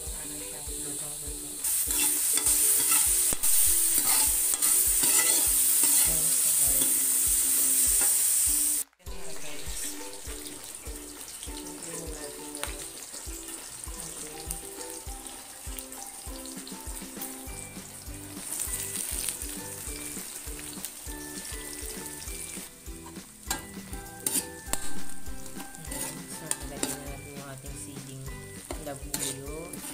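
Diced pork fat sizzling in hot oil in a metal wok, loud from about two seconds in until an abrupt cut near nine seconds. After the cut the frying is quieter, with a spatula stirring and clicking against the wok as the chopped onion, garlic and chili fry in the rendered fat.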